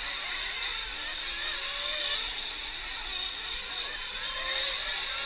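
Small nitro engines of 1/8-scale RC racing trucks running on the track, a steady high-pitched buzz with pitches that waver up and down as the trucks throttle on and off.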